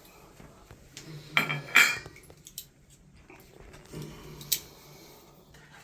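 Small metal parts clinking and clattering as old shower valve trim is handled and set down, with a cluster of clanks about a second and a half in and one sharp clink later.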